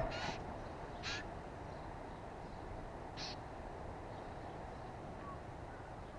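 Three short, harsh bird calls, the first two about a second apart and the third two seconds later, over a steady low background noise.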